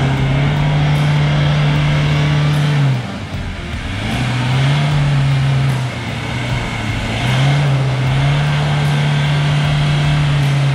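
Land Rover Defender's engine revving as it drives through deep mud, in three pushes of the throttle: each time the engine note rises and holds steady for two to three seconds, then drops back.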